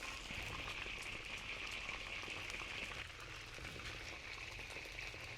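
Food frying in a cooking pot: a steady sizzling hiss with many faint crackles.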